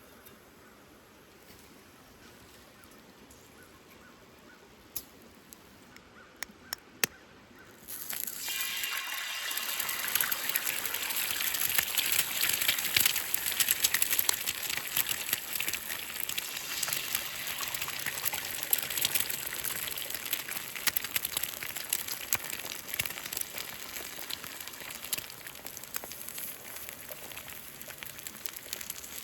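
Food frying in a hot cast iron skillet over a campfire: a dense crackling sizzle starts suddenly about eight seconds in, builds over a few seconds, then slowly eases. Before it starts there are only a few faint clicks.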